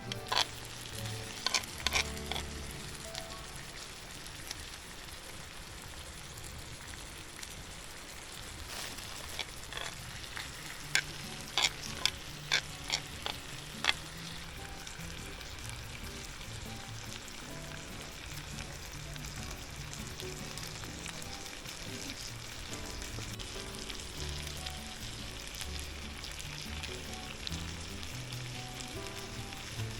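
Food sizzling in a pan as a steady hiss, with a handful of sharp clicks near the start and a cluster of them a little before the middle, over background music.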